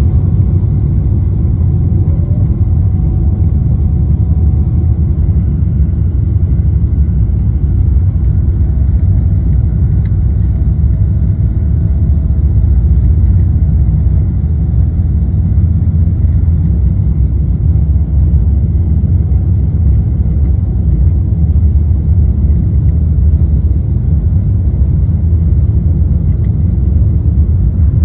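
Jet airliner taking off, heard from inside the cabin: a loud, steady low rumble of engines and airflow that holds even throughout.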